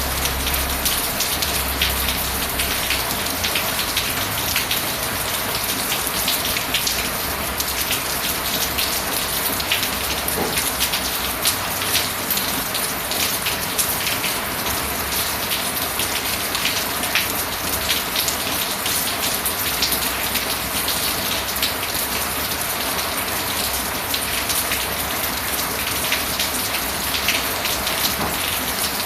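Steady rain falling, a dense even hiss sprinkled with many small individual drop ticks.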